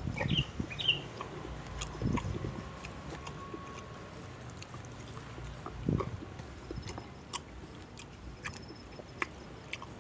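Close-up chewing and mouth sounds of someone eating rujak fruit salad, with scattered small clicks and soft low thuds.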